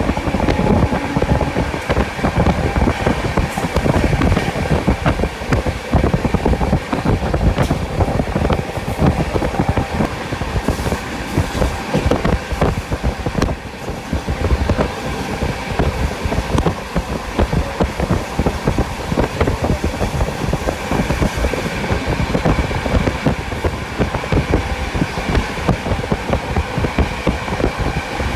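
Sampoorna Kranti Express coach running at speed, its wheels rumbling and clattering steadily over the rail joints, heard from inside the coach.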